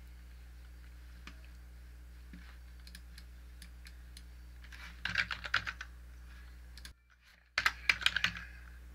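Typing on a computer keyboard: scattered single clicks, then two short bursts of rapid keystrokes about five and eight seconds in, as dimension values are entered. A low steady electrical hum lies underneath.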